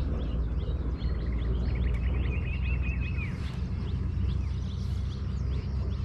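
Birds chirping and calling, with a trilled call about two seconds in, over a steady low hum.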